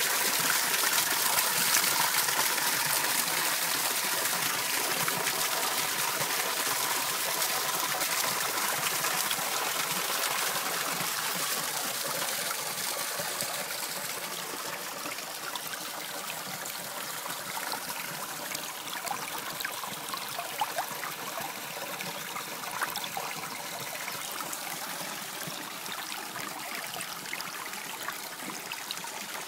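Running water flowing and trickling steadily, gradually getting quieter over the stretch, with a couple of brief splashes.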